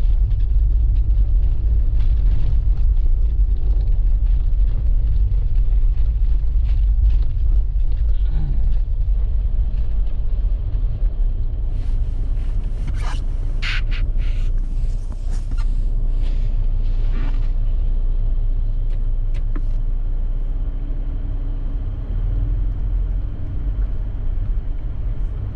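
Steady low rumble of a car driving slowly through deep, slushy snow, heard from inside the cabin, with scattered light clicks and a stretch of hissing about halfway through.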